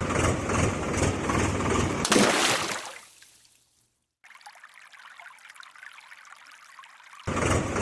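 Water pouring and splashing in a steady rush, fading out about three seconds in, coming back quieter, then loud again near the end.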